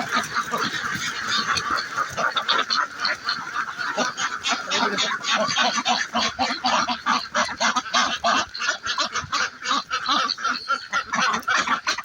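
A flock of domestic ducks quacking, with many short calls overlapping continuously at several a second.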